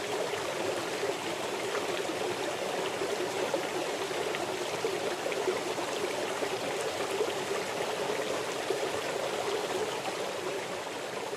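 Running water, a steady trickling flow that goes on without a break.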